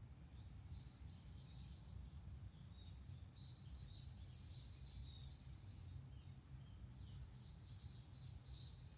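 A faint bird singing: three short phrases of quick repeated high notes, over a low background rumble.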